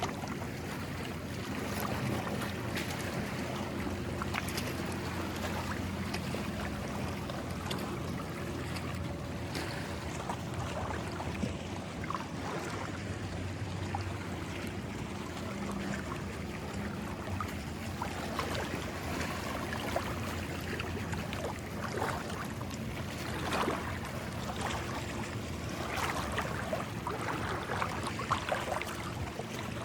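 Small sea waves washing on the shore, with wind, a faint steady low hum underneath, and short splashes or crunches that come more often near the end.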